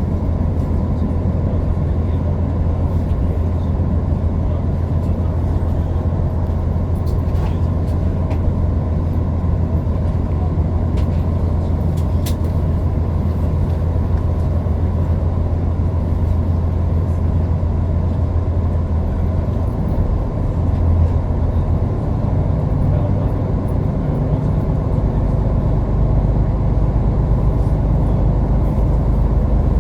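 Running noise of the Hokuto limited express diesel train heard inside the carriage: a steady low hum and rumble that shifts lower in pitch about two-thirds of the way through.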